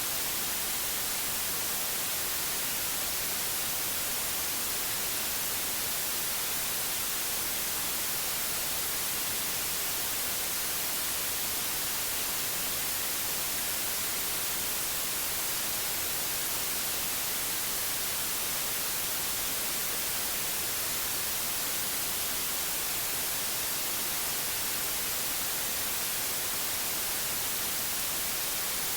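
Steady white noise: an even, unchanging hiss, brightest toward the top.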